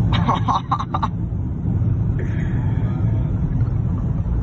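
Steady low rumble of a car driving, engine and road noise. In the first second there is a quick run of about half a dozen short, sharp sounds.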